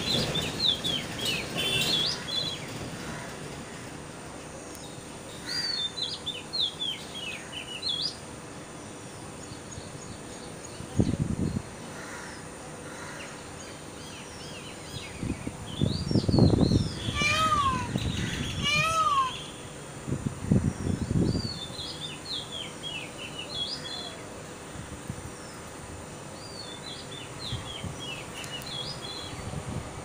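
Birds chirping in short high-pitched bursts, on and off, with two louder, lower calls a little past the middle. A few brief low rumbles come in between.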